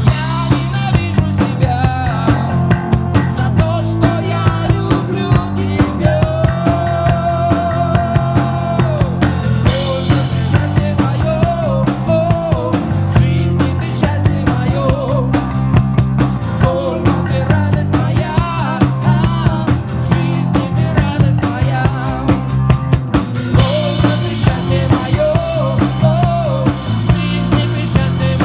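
Live rock band playing an instrumental break: a lead guitar melody with bending, held notes over bass and a drum kit keeping a steady beat.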